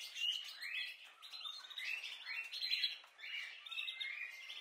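Small birds chirping in a quick, steady series of short high chirps, two or three a second.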